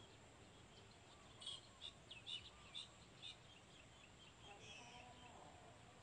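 Faint, high chirps of small birds, a quick series of about six between one and a half and three and a half seconds in, over a low background hiss.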